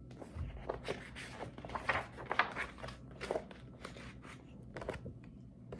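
Irregular rustling and crinkling of paper, a picture book's page being handled and turned.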